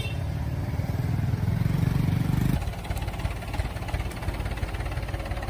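An engine running, louder for the first two and a half seconds, then dropping back abruptly and running on at a lower level.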